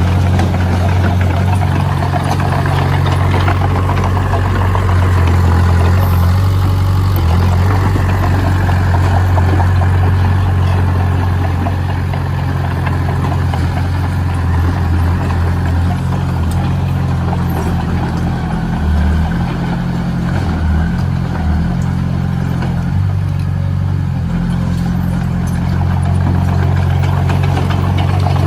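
Heavy construction machine's engine running steadily at a low, even pitch.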